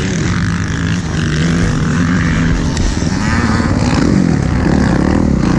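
Motocross dirt bike engine running under a rider, the revs rising and falling over and over.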